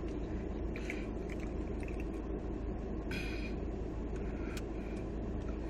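A tortilla chip being chewed, with a few brief crunches, over a steady low background rumble.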